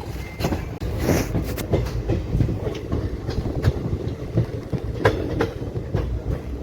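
Train running on the rails: a steady low rumble with irregular clattering knocks from the wheels, and a short hissing burst about a second in.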